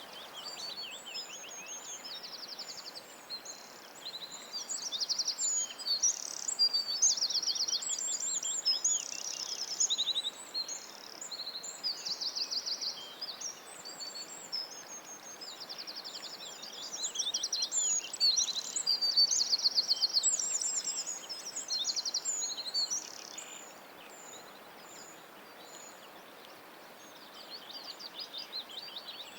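A songbird singing a long, varied run of high chirps and rapid trills in phrases, over a steady hiss of outdoor background noise; the song thins out a few seconds before the end.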